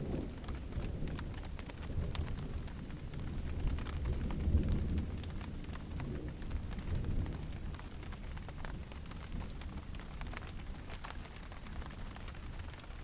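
Steady rain with many close drops ticking on surfaces, over a low rumble of thunder that swells about four seconds in and fades away by about eight seconds.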